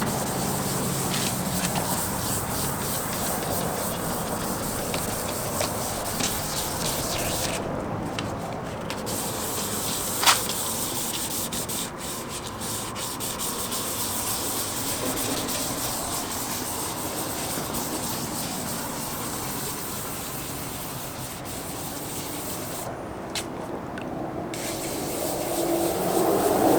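Wet sanding of a plastic headlight lens with 400-grit sandpaper: steady rasping rubbing that breaks off briefly twice, with one short sharp sound about ten seconds in.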